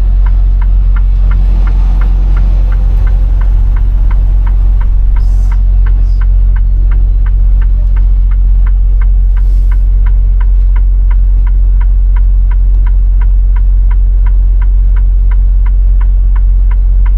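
Steady low drone of a semi truck's diesel engine in the cab, with the turn signal ticking evenly, about two to three clicks a second, starting about a second in.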